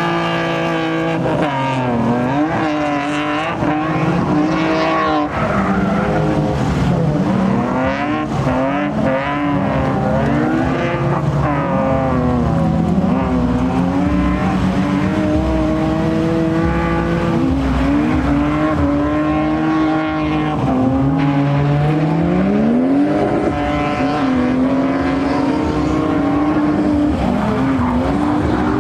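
Car engines revving hard at high revs, the pitch swinging up and down again and again and sometimes holding steady, with tyre squeal.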